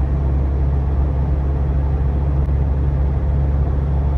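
Steady low drone of a GAZelle van driving, heard from inside the cab: engine and road noise with no distinct knocks.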